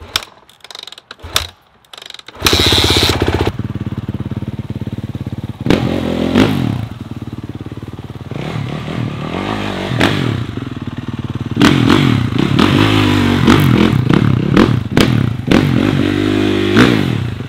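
A single-cylinder motorcycle engine starts about two seconds in and runs loudly, revved up and down several times with its pitch rising and falling.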